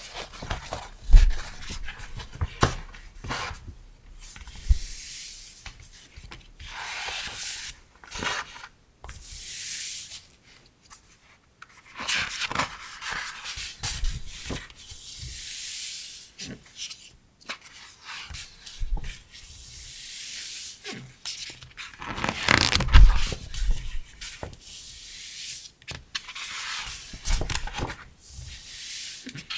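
Paper and packaging being handled: repeated rustling passes a second or two long, with scattered light knocks, the loudest about a second in and again near the end.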